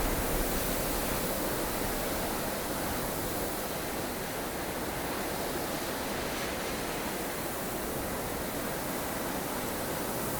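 Steady blustery wind of a snowstorm, a dense even rush of noise that swells and eases slightly over a few seconds.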